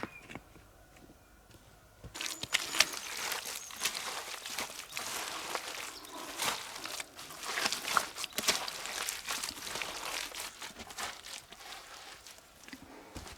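Dense crunching and rustling with many sharp snaps, starting about two seconds in and tapering off near the end.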